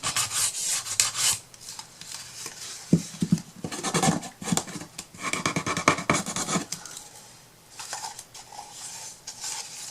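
Irregular hand scraping and rubbing with light clicks and taps as paper and craft tools are worked over a wooden piece.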